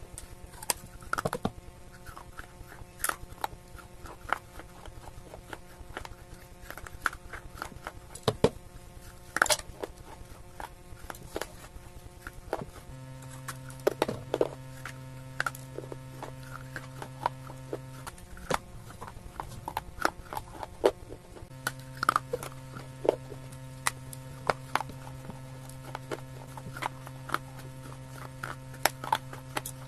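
Dried clay and slate pencil being bitten and crunched: irregular sharp crunches and cracks, a few clearly louder than the rest. A steady low hum comes and goes underneath, starting about halfway through, cutting out for a few seconds and stopping again near the end.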